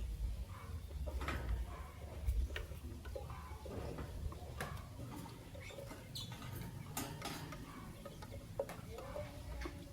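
Masked lovebirds and an albino lovebird chattering in short squeaky chirps, mixed with scattered sharp clicks and taps.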